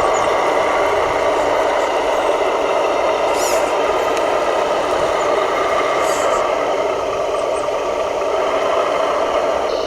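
Steady whirring of radio-controlled model construction vehicles' electric motors and gearboxes running, with a few short high-pitched scrapes about a third and two-thirds of the way through.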